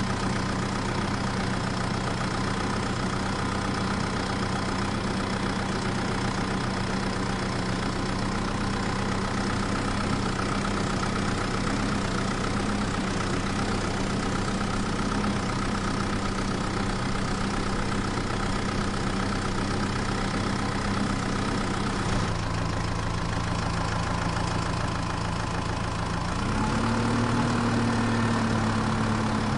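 Mini tractor's motor running steadily under a load of fodder, its pitch dropping about 22 seconds in, then rising and growing louder about four seconds later.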